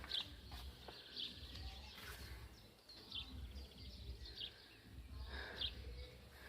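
Birds chirping faintly, short high calls about once a second, over a low rumble of wind on the microphone.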